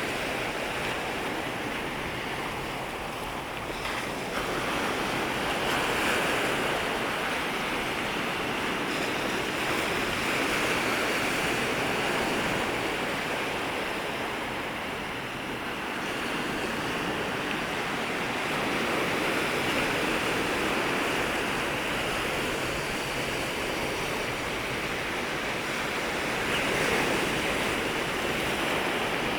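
Sea waves breaking and washing up at the water's edge: a continuous rush of surf that swells and eases every few seconds.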